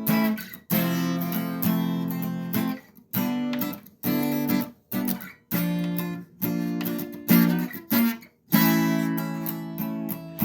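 Acoustic guitar strumming chords between sung verses, each chord ringing for a second or so and then stopped short, with brief silences between.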